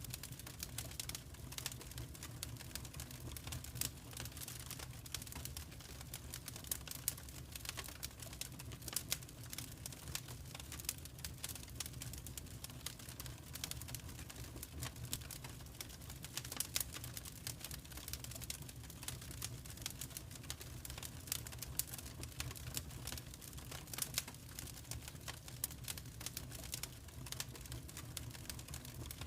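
Wood fire in a fireplace crackling and popping in irregular sharp clicks, over a steady low rumble.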